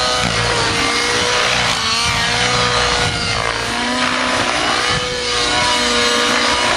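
Nitro RC helicopter's OS 90 glow engine running on a GP-Exhaust tuned pipe in flight: a steady high engine whine, with pitch sweeps rising and falling several times as it manoeuvres and passes.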